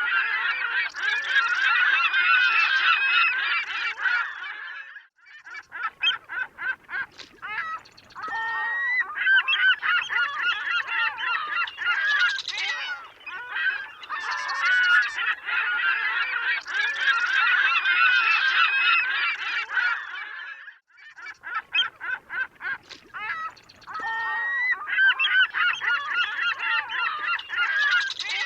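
A flock of seagulls calling, many cries overlapping into a dense chorus. It thins to scattered calls twice before swelling again.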